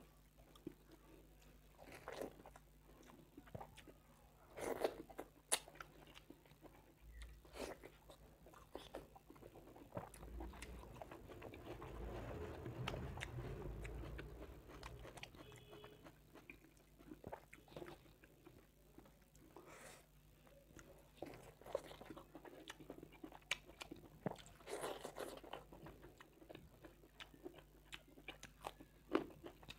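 Close-miked eating by hand of mutton curry and rice: chewing and biting with scattered sharp wet mouth clicks, and fingers working rice and gravy on a steel plate. There is a longer, louder stretch about halfway through.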